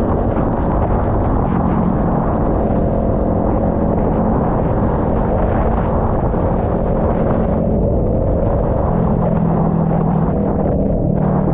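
Kawasaki Ninja 400's parallel-twin engine running while riding, under a heavy rumble of wind on the microphone. The engine note drops lower about eight seconds in.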